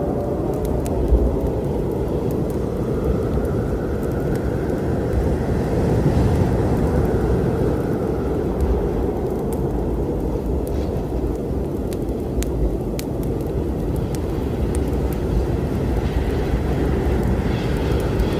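A steady low rumbling storm ambience, with sharp, scattered crackles from a wood fire over it.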